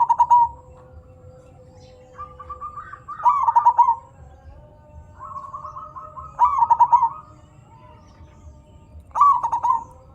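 Zebra dove (perkutut) cooing: four loud bouts of its quick, stuttering coo, about three seconds apart, with faint high chirps from other birds.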